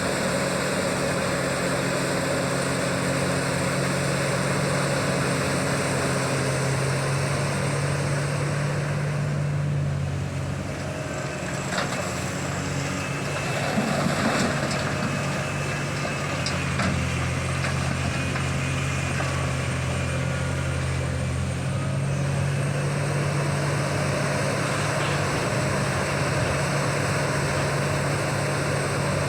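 Diesel engine of a Liebherr 984 hydraulic excavator running steadily, its note dropping for a stretch in the middle and then coming back up as the load changes. A few short knocks come in the middle.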